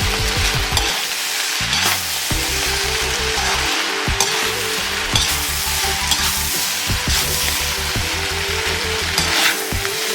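Chicken chowmein sizzling in a hot pan as it is stirred and tossed, with a few scrapes of the spatula.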